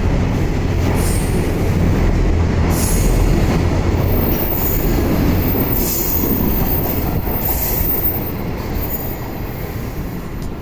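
Freight train passing at speed, its wagons' wheels rumbling on the rails with recurring high-pitched squeals. It grows quieter near the end as the train goes by.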